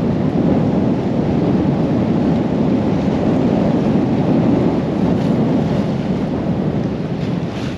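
Storm-force wind buffeting the microphone: a loud, steady rumbling roar without a break.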